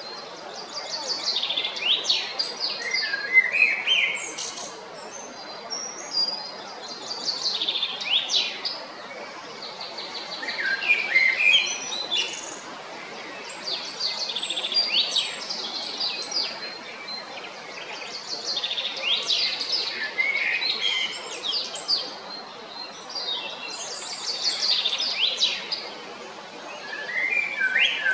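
Male Common Blackbird singing: about six song phrases with short pauses between them. Each phrase mixes high twittering notes with lower notes that slide in pitch.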